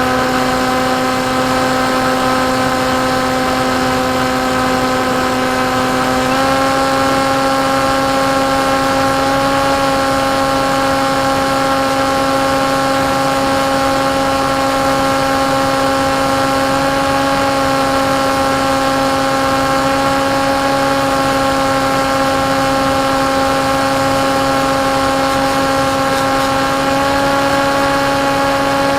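Electric motor and propeller of a KT Wing foam flying-wing RC plane running at steady cruise throttle, a constant buzzing drone that steps up slightly in pitch about six seconds in and then holds.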